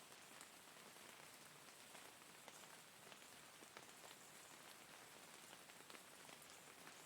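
Faint, steady rain falling, with individual drops ticking here and there on a surface.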